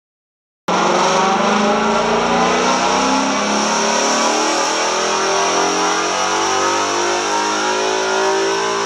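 Ford Mustang's 5.0 L Coyote V8 breathing through Corsa long-tube headers, mid-pipes and exhaust, running loud under sustained load with its pitch climbing slowly and steadily. The sound cuts in abruptly a moment in.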